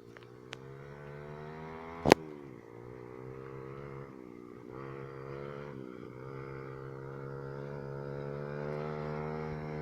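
125cc single-cylinder pit bike engine running, its pitch dipping and rising with the throttle and climbing gradually toward the end. A sharp knock about two seconds in is the loudest sound, with a couple of fainter clicks early on.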